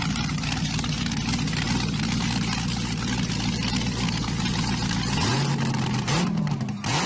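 An engine running steadily, then revving about five seconds in, its pitch rising and falling.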